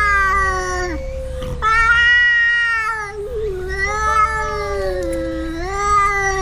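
Two cats yowling at each other in a standoff, a series of long, drawn-out wails that waver in pitch, with two voices overlapping near the start. These are threat yowls, a warning from the resident cat to drive the other away.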